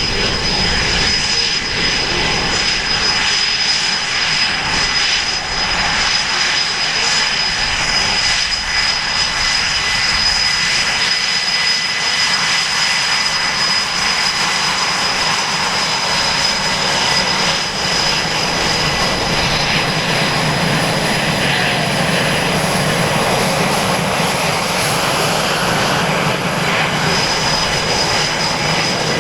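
EA-18G Growler's twin General Electric F414 jet engines running at low power while taxiing: a steady loud rush with a high-pitched whine.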